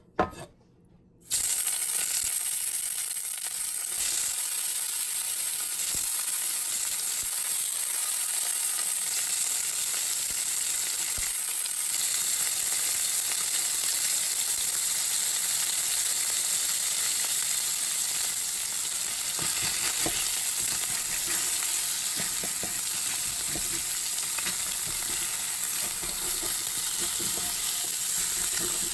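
Food frying in a pan: a steady sizzle with scattered small pops, cutting in abruptly about a second in after a few brief knocks.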